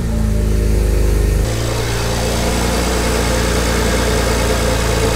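BMW 335i's turbocharged inline-six idling steadily just after start-up. It is heard first from inside the cabin, then, after about a second and a half, from the open engine bay.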